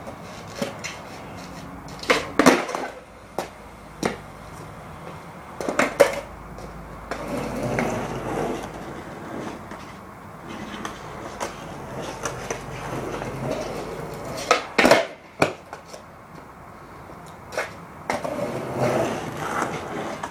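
Skating: stretches of scraping and rolling broken by sharp knocks and clacks, the loudest a pair about two seconds in, one near six seconds and another pair around fifteen seconds.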